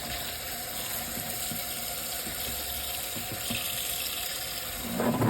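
Tap water running steadily into a salad spinner as fresh lettuce, rocket, shallots and mint are rinsed, a constant hiss of water; a louder, rougher sound begins near the end.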